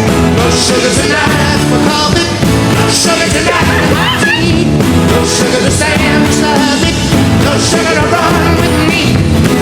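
Live rock band performing with lead vocals over electric guitar, bass and drums, cymbals hitting in a steady beat.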